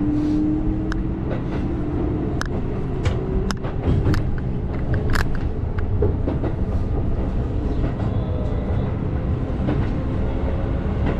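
Keihan 8000 series electric train running, heard from the front car: a steady rumble with a tone rising slowly over the first couple of seconds and scattered sharp clicks.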